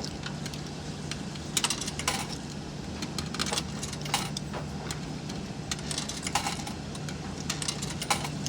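Quarters clinking as they are handled and dropped into a coin-operated washer's coin slot: a string of sharp metallic clicks at irregular intervals, over a steady low hum.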